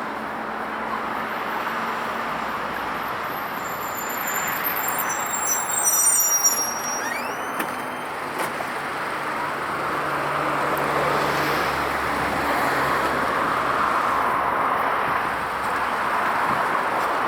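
Steady road-traffic noise, a continuous rush of passing vehicles that grows a little louder past the middle, with a brief high squeal about five seconds in.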